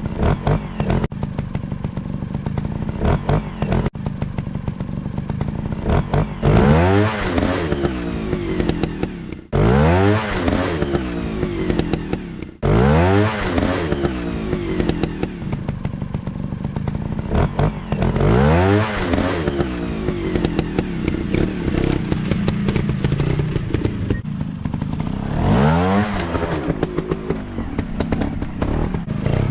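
Motocross dirt bike engines revving hard, the pitch climbing steeply again and again as the bikes accelerate, with clattering and scraping underneath.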